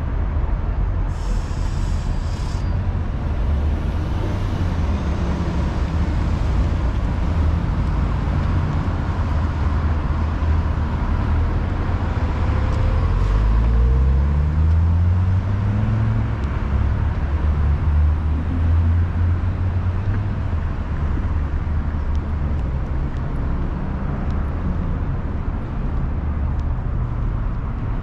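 City street traffic with engines running, a short hiss about a second in, and a heavy vehicle's engine rising in pitch as it pulls away about halfway through.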